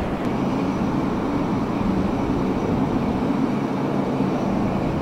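Boeing P-8I Poseidon's twin turbofan jet engines running: a steady, loud rumble with a faint low hum.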